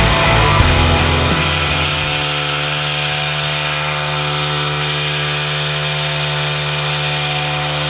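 Small gasoline engine of a concrete power trowel running at a steady speed, with music fading out in the first second or so.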